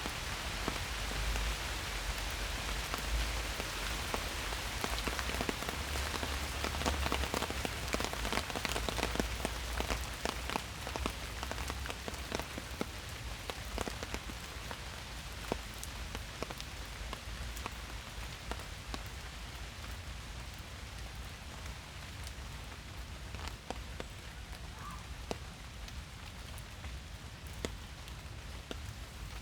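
Steady rain falling in a forest, with a dense patter of individual drops hitting leaves and surfaces; it eases slightly in the second half.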